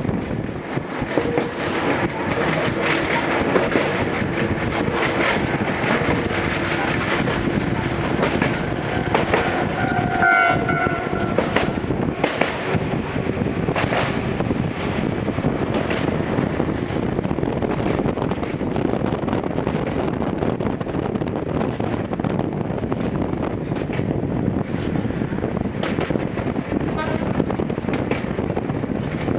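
Gakunan Railway 7000 series electric railcar running, heard from inside the carriage: a steady running noise with clicks from the wheels over the rails and a steady hum through the first half. About ten seconds in, a short pitched tone sounds for a second or so.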